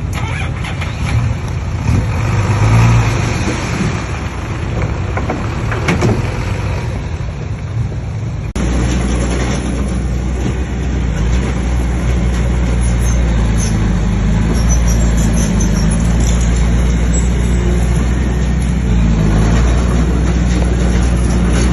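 Heavy diesel earthmoving machinery running under load. About a third of the way in the sound cuts abruptly to a steadier, deeper engine note.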